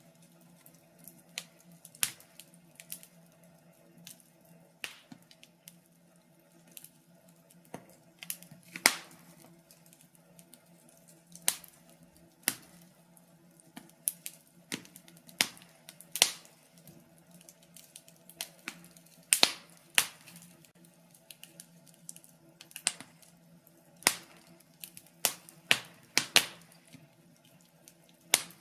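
Birch logs crackling in a fireplace: irregular sharp pops and snaps, some in quick clusters of two or three, over a faint steady low hum.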